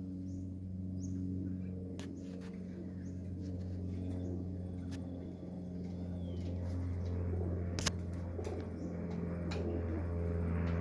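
Pigeons cooing over a steady low hum, with a few sharp clicks; a passing vehicle's noise builds over the last few seconds.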